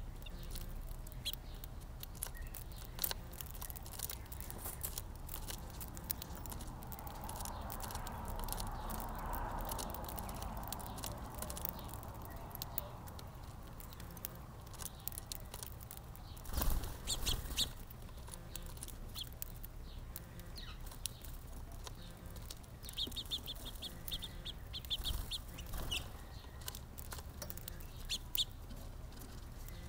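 Small backyard birds chirping in short, sharp notes, with a quick run of chirps about 23 seconds in and a brief, louder rush of noise about 17 seconds in.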